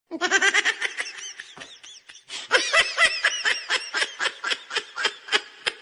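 High-pitched laughter: a rapid run of short, arching laugh pulses, about four or five a second, going on for several seconds.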